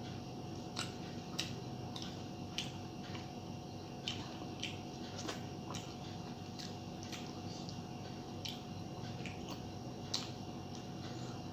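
Close-up eating sounds: a person chewing a rice-and-curry meal, with short wet mouth clicks and smacks every half second or so, over a steady low hum.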